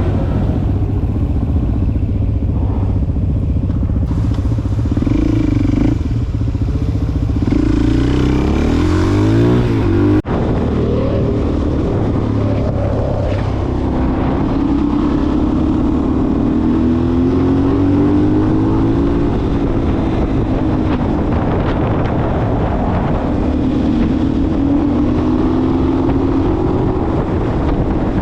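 Suzuki DR-Z400SM supermoto's single-cylinder four-stroke engine running under way. Its pitch climbs and falls repeatedly as it revs and accelerates, with a brief break about ten seconds in.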